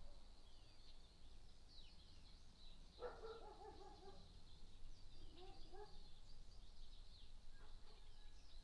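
Faint, rapid high chirping, like small birds calling, runs throughout over a low steady road rumble. About three seconds in there is a short lower-pitched call.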